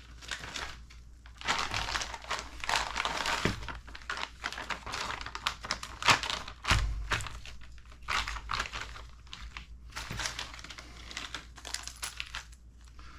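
Plastic kit parts bag crinkling and rustling in the hands as it is opened, with a few sharp clicks.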